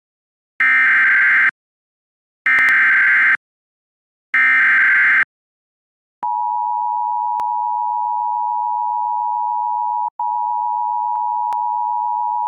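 Emergency Alert System tones on an FM radio broadcast: three short squawking bursts of SAME digital header data, each about a second long, then the steady two-tone attention signal starting about six seconds in, with a momentary break partway through. The tones announce a National Weather Service severe thunderstorm warning.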